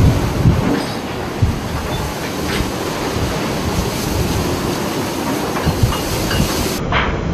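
Loud, steady rush of wind and sea aboard a ship in a storm, with repeated knocks and rattles running through it. The sound changes abruptly near the end.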